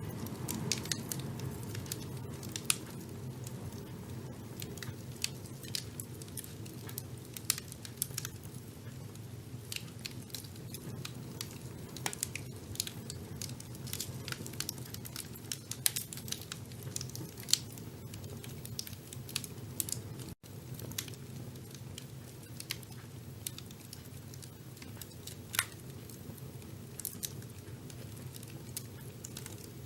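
Wood fire burning in a fireplace: a steady low rumble of the flames with irregular crackles and occasional sharper pops. There is a momentary dropout of the sound about two-thirds of the way through.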